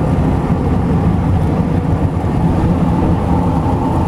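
350 cubic-inch V8 engine of a homemade jet boat running steadily under way, a loud, even drone.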